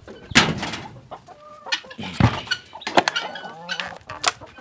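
Flock of kienyeji (indigenous free-range) chickens clucking in short calls, mixed with a few sharp knocks and scrapes, the loudest about half a second in and a little past two seconds.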